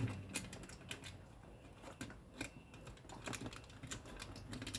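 Aluminium foil tape being handled and pressed into place inside an acoustic guitar body: irregular light clicks, crackles and taps, a few every second.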